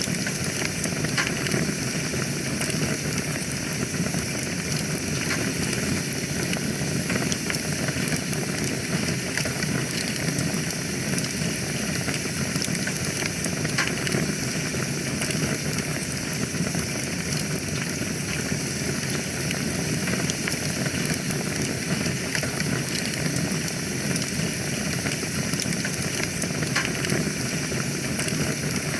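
Wood fire burning in a fireplace: a steady hiss with scattered sharp crackles and pops all through.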